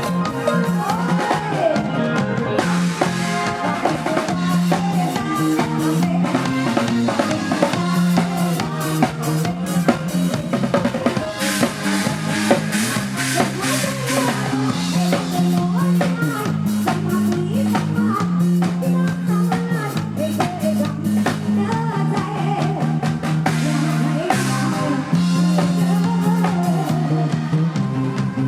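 Live band playing an instrumental passage of a Thai Isan pop song, with a drum kit's snare and bass drum driving a steady beat under a stepping bass line and melody.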